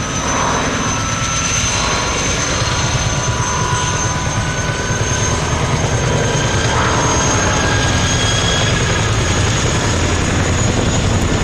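Propeller aircraft engine, likely a Fairey Swordfish's radial engine, running steadily as the aircraft flies its display. The sound grows louder through the first half and then holds.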